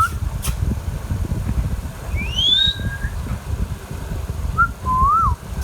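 Indian ringneck parrot whistling: a few short sliding whistle notes, one rising steeply a little past two seconds in and a rise-and-fall near the end. A steady low rumble runs underneath.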